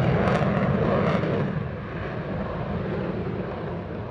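Military aircraft engine noise, a steady rushing sound that is loudest at first and slowly fades.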